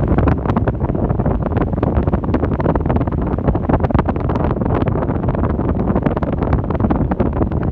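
Airflow from an Arno Ultra Silence Force electric fan blowing on the microphone: a loud, steady rumbling wind noise with frequent crackles.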